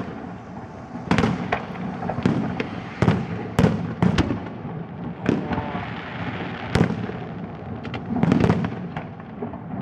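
Fireworks display: aerial shells bursting in about ten sharp bangs at irregular intervals, each trailing off in an echoing rumble.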